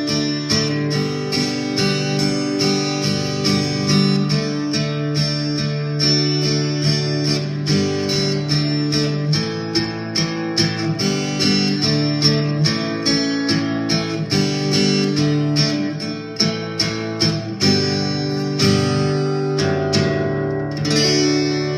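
Instrumental guitar music, strummed guitar with a steady rhythm, ending on a held final chord that rings out near the end.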